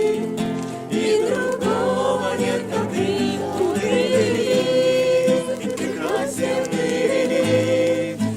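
A group of voices singing a Christian worship song together.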